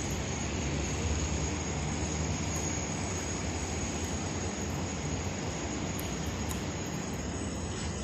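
A steady low rumble with a hiss over it, swelling slightly about a second in and easing toward the end.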